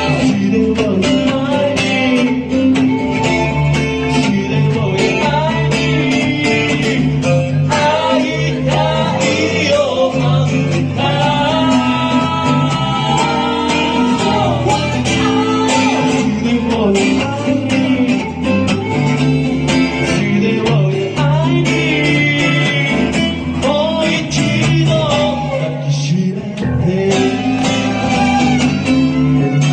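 Live band music in a country style: guitar accompaniment with a wavering melody line carried on top, played steadily without a break.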